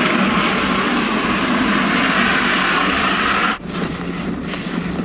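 A steady rushing noise that cuts off abruptly about three and a half seconds in, giving way to a quieter outdoor background.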